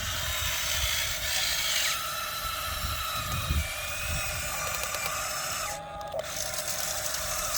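Small electric motors and gearboxes of a 1550 RC model excavator whining as it works, the pitch shifting as the controls are moved, with a low rumble underneath.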